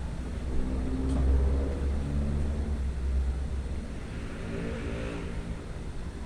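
A motor vehicle's engine running with a low rumble that swells about a second in, then a second swell of engine and tyre noise about four to five seconds in, like a car passing.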